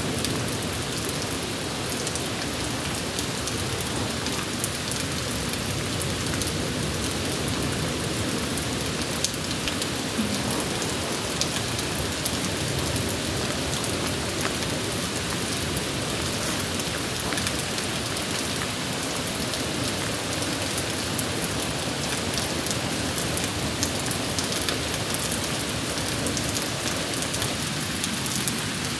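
Steady rain falling, a continuous hiss dotted with many small, sharp drop impacts.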